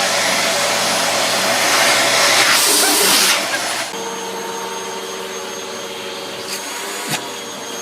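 Vacuum cleaner running with a loud, steady whooshing noise. About four seconds in it drops a little and settles into a steadier hum with clearer tones. A short sharp click comes near the end.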